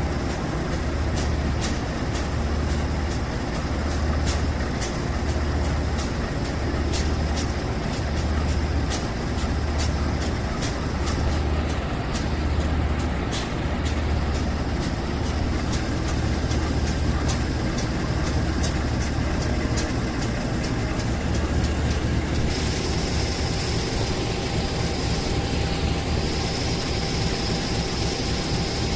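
Train running past on the tracks: wheels click rapidly over the rails above a low, regularly pulsing rumble. About 22 seconds in the clicking stops, leaving the rumble with a steady high whine.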